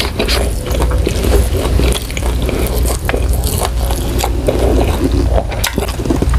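Close-miked chewing with wet mouth clicks and smacks. Wooden chopsticks scrape and stir noodles in a paper cup.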